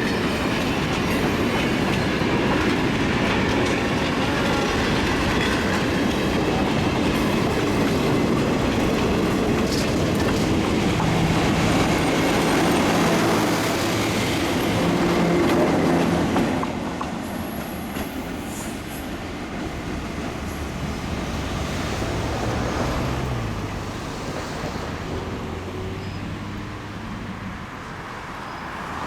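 Morristown & Erie Railway train rolling past a grade crossing, its wheels clicking over the rail joints with some wheel squeal. About two-thirds of the way through the sound drops off sharply and carries on quieter as the train moves away.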